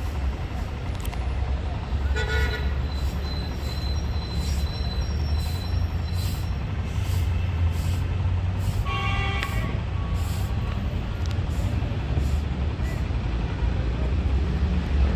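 Steady low rumble of road traffic with two short horn toots, one about two seconds in and another about nine seconds in.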